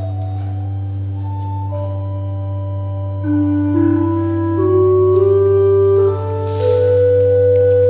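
Church organ playing slow, sustained music over a held low pedal note. About three seconds in, the melody climbs step by step and the music grows louder.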